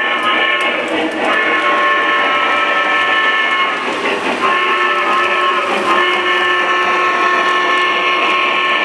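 Model train's electronic sound system blowing its whistle in long, steady blasts, broken briefly about a second in and again around four and six seconds in.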